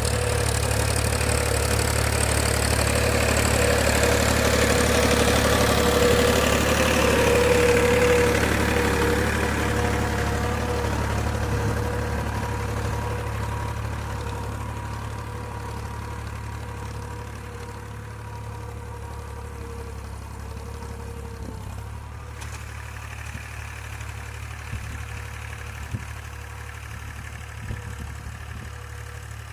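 Tractor engine running steadily. It is loudest for the first several seconds, then fades over the next ten or so to a lower, even hum. A couple of faint knocks come near the end.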